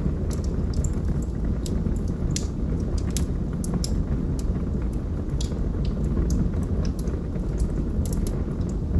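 Wood fire burning in a fireplace: frequent sharp, irregular crackles and pops over a steady low rumble of flames.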